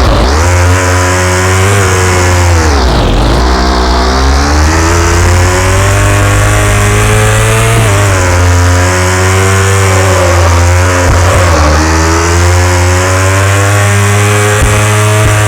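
KTM Duke 390's single-cylinder engine revving loudly, its pitch rising and falling with the throttle and dropping sharply about three seconds in before climbing again.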